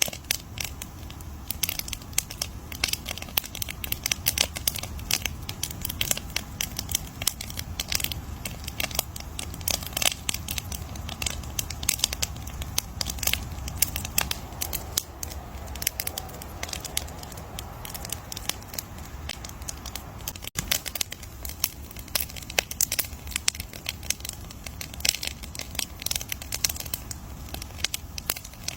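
Wood campfire crackling, with dense irregular snaps and pops over a low, steady rumble of burning.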